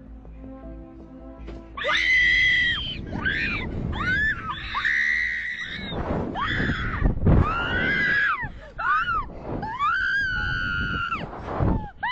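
A string of loud, high-pitched human screams, starting about two seconds in, each held up to a second or so and bending in pitch, over background music.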